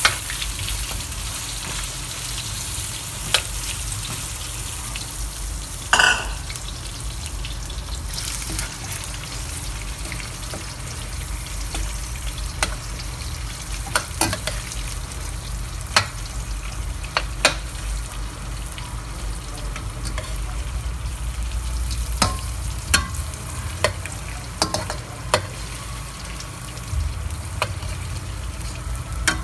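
Floured tiger prawns frying in hot oil with garlic, ginger and chilies in a stainless steel pan: a steady sizzle, strongest just after they go in. A metal ladle clinks and scrapes against the pan now and then as they are stirred.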